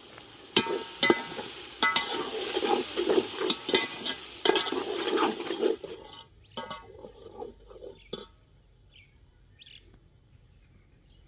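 Tomato, onion and spice masala sizzling in hot oil in a large aluminium cooking pot while being stirred, with repeated sharp knocks and scrapes of a metal ladle against the pot. The frying sound cuts off about six seconds in, leaving a quiet background with a few faint chirps.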